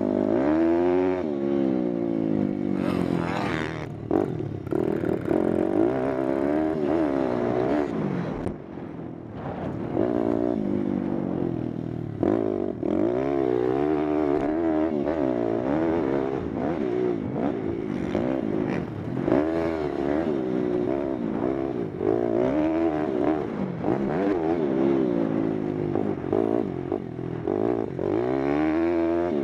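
Pit bike's small single-cylinder four-stroke engine being ridden hard, its revs climbing and dropping over and over as the throttle is opened and shut.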